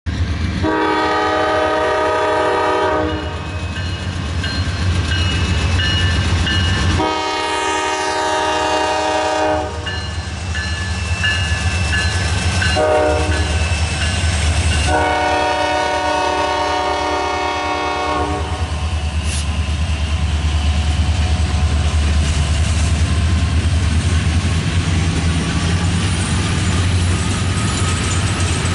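Diesel freight locomotives sounding a multi-tone air horn in the grade-crossing pattern, long, long, short, long, as they approach. This is followed by the loud low rumble of the locomotives passing and the wheel clatter of loaded coal hopper cars rolling by on the rails.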